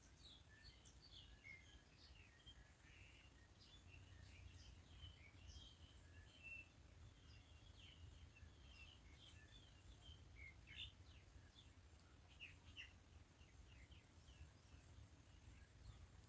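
Small birds chirping and twittering faintly, many short quick calls overlapping, over a steady low rumble.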